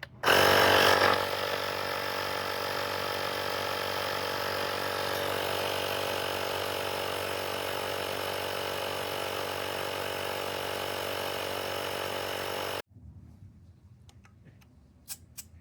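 Portable digital tire inflator's small air compressor running steadily as it pumps up a car tire, louder for its first second, then stopping suddenly near the end once the tire reads 32 PSI.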